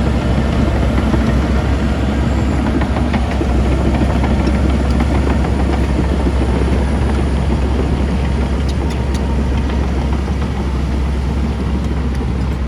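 Heavy diesel earthmoving machinery running: a steady low engine drone with scattered clicks and rattles over it.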